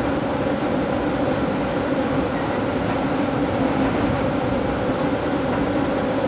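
Moving passenger train heard from inside the car: a steady rolling rumble of wheels on rail with a low, even hum.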